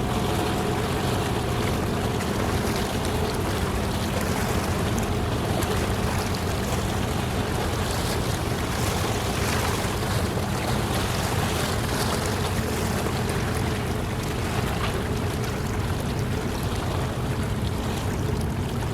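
Steady low rumble of a passing ship's engine, mixed with wind and water noise.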